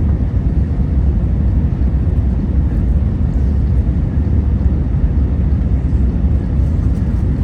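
Steady low rumble inside the cabin of a Wizz Air Airbus A321neo, even throughout with no sudden changes.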